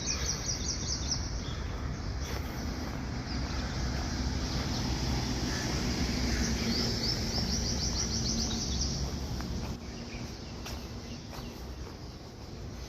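A bird's rapid chirping trills, a fast run of high notes near the start and again in the middle, over a steady low rumble.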